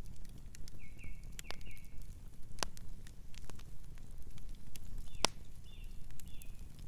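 Fire crackling with scattered sharp pops over a low steady rumble, while a small bird gives two short runs of chirps, about a second in and again after five seconds.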